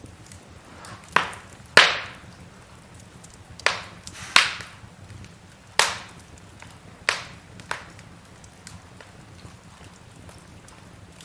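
Wood logs burning in a fireplace, crackling: about seven loud, sharp pops at uneven intervals, with fainter ticks and a low steady hiss in between.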